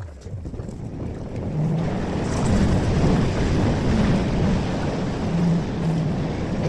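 Metro train running: a rushing rumble that grows louder over the first two seconds, then holds steady.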